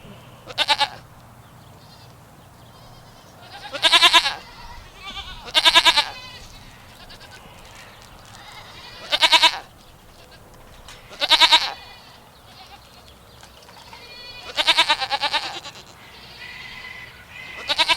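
Goat bleating about seven times, each call a second or less with a wavering pitch, a few seconds apart.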